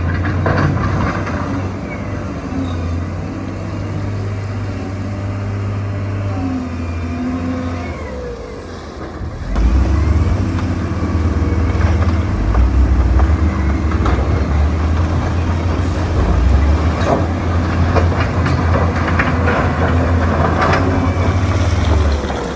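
Heavy diesel earthmoving machine at work, its engine running under load with a steady low drone that grows louder about ten seconds in, with scattered knocks and clanks.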